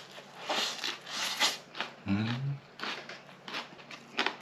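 Close-up eating sounds: a mouthful of grilled pork belly being chewed, with wet smacking and small clicks. About two seconds in there is a short hum of the voice, a half-second 'mm' that rises a little.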